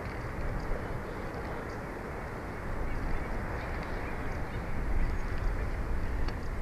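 Wind rushing over the microphone as a steady rumble, picking up partway through, with faint high bird chirps now and then.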